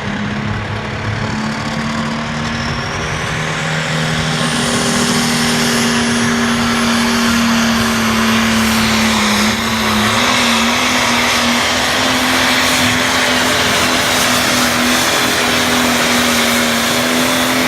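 Light pro stock pulling tractor's diesel engine at full throttle on a pull, holding a steady, loud, high-revving note with a thin whine rising over the first few seconds.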